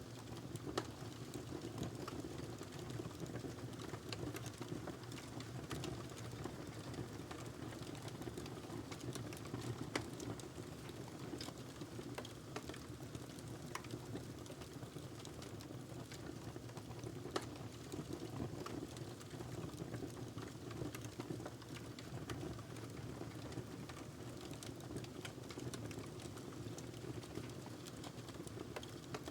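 Fire crackling in a fireplace: a steady low rush of burning with irregular sharp pops and snaps throughout, a few of them louder.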